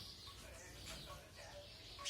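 A small bird chirping faintly, a few short high calls.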